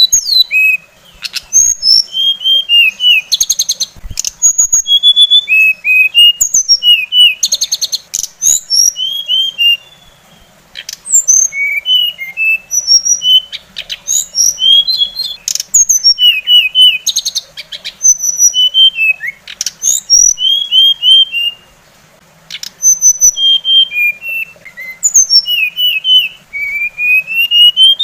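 Songbird singing a fast, varied song of short chirps and whistled notes, with a few buzzy rattles mixed in, breaking off briefly twice.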